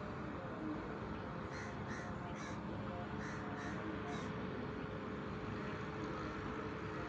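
A bird calling: a quick run of about six short calls, starting about a second and a half in and ending about four seconds in, over a steady background hum.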